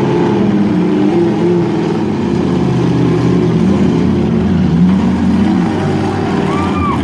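Truck engines running and revving.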